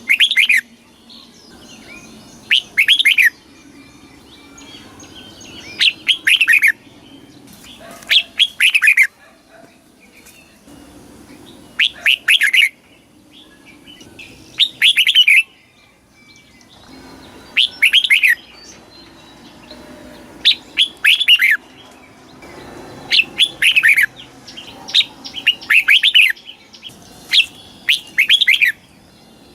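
Red-whiskered bulbul singing: short phrases of several quick, falling whistled notes, repeated about every two to three seconds, over faint background noise.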